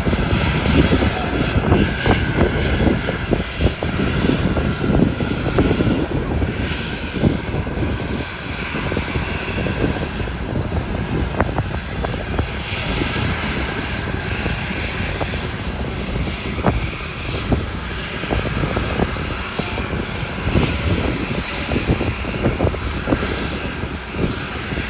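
JMSDF SH-60K helicopter's twin turboshaft engines and rotor running steadily and loudly, with a faint steady whine above the rotor noise.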